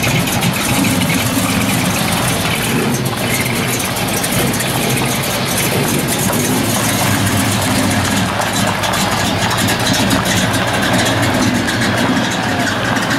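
Dodge Super Bee muscle car's V8 engine running at a low, steady idle as the car rolls slowly past.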